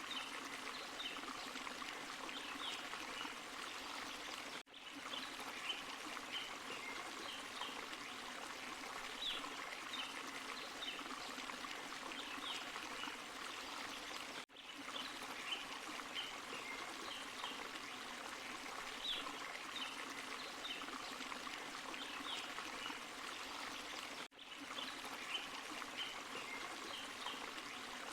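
Small forest waterfall and stream: steady rushing, splashing water. A sharp, very short drop in level comes about every ten seconds, where the recording loops.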